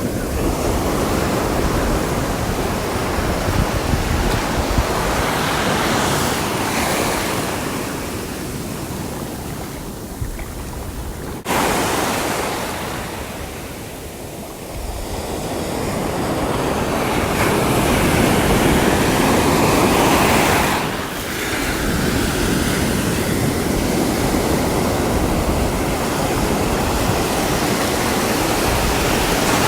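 Sea waves breaking and washing on the shore, the surf swelling and ebbing every few seconds, with wind buffeting the microphone. The level jumps suddenly about eleven seconds in.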